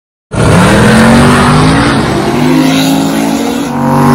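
Drag-racing car engine revving hard under acceleration, starting abruptly, its pitch climbing. There is a brief dip in level near the end, then it runs loud again.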